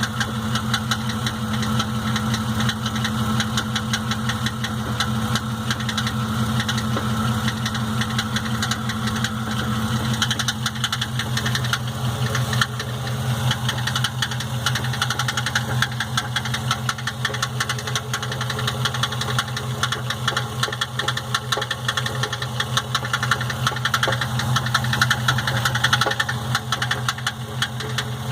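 Chevrolet Astro van engine running steadily with a rapid, continuous rattle, which the owner cannot place between the engine and the automatic transmission.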